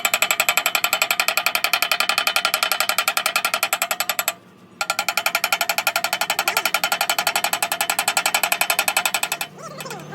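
Rapid, evenly paced mechanical hammering at about a dozen blows a second, like a pneumatic hammering tool working on steel. It breaks off for half a second about four seconds in and stops shortly before the end.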